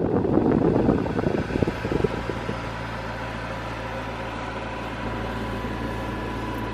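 McLaren 650S twin-turbo V8 idling steadily, heard from inside the cabin with the climate-control fan blowing, and some clatter over the first couple of seconds.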